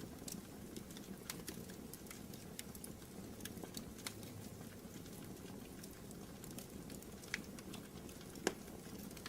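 Wood fire crackling in a fireplace: irregular small pops and snaps over a low steady rumble, with two louder pops near the end.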